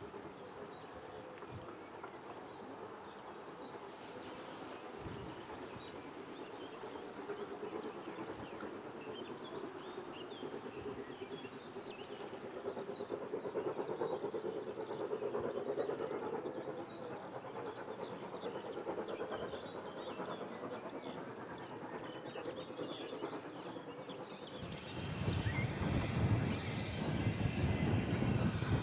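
Steam train running along the line: a steady rumble that swells partway through, then grows much louder as the train passes close near the end.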